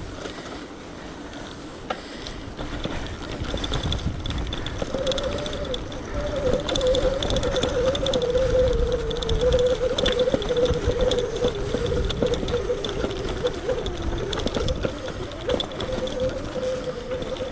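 Electric bike being ridden: a low rumble with small rattles and knocks, joined about five seconds in by a steady, slightly wavering whine from the bike's motor.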